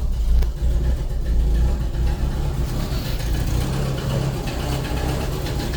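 A 1977 Ford Corcel Belina's four-cylinder carburetted engine idling steadily while warming up after a start; the car has no choke cable fitted.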